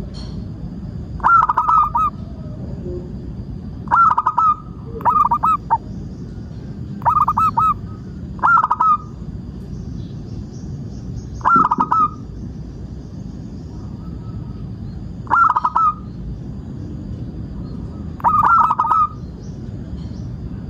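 Zebra dove (perkutut) cooing: about eight short phrases of rapid, bubbling notes, each under a second long, repeated every one to four seconds over a steady background hiss.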